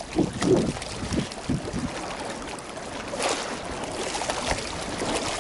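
Small water splashes and lapping at the water's edge, a few short splashy sounds in the first second or two, over a steady hiss of wind and water.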